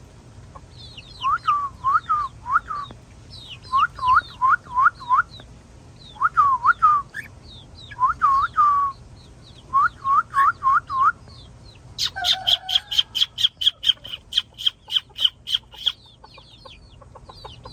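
Birds calling in repeated bursts of four or five short, clear notes, with quick high chirps between the bursts. About twelve seconds in, a fast run of sharp calls lasts some four seconds.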